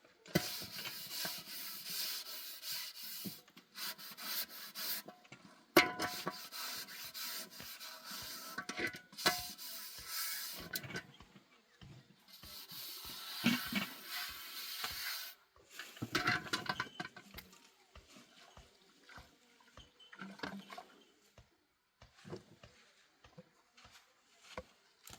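Repeated scraping strokes, each one to three seconds long with short pauses between them, among scattered clicks and knocks; the strokes thin out near the end.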